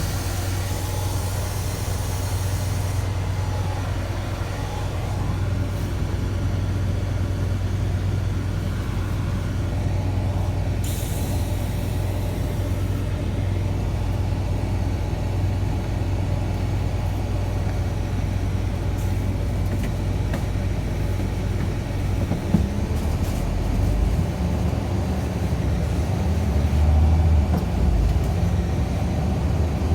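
Scania bus engine running with a steady low hum, with compressed air hissing twice, at the start and again about eleven seconds in. From about two-thirds of the way through, the engine note changes and grows louder as the bus pulls away.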